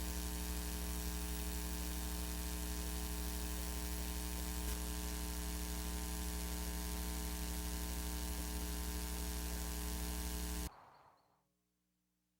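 Steady electrical mains hum with a buzzy edge and hiss on the otherwise silent audio track of a VHS tape. It cuts off abruptly near the end, leaving near silence.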